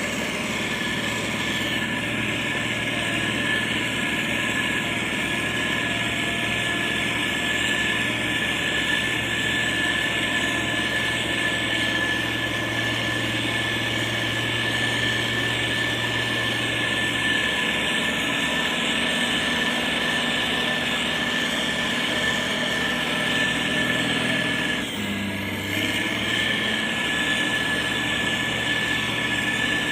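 Motor grader's diesel engine running steadily under load, with a steady high-pitched whine over the hum. The engine note shifts slightly about eighteen seconds in and dips briefly about twenty-five seconds in.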